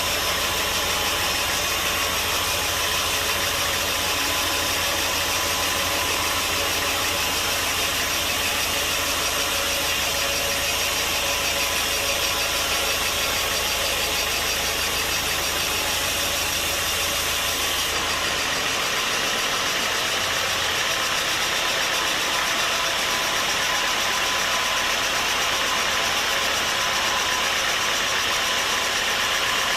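Sawmill machinery running steadily, an engine-like drone under a broad hiss; the low hum drops out about two-thirds of the way through.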